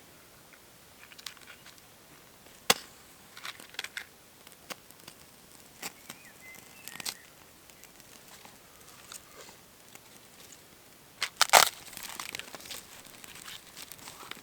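Dry twigs and wood snapping and crackling in scattered sharp cracks, with a louder burst of cracks near the end followed by rustling.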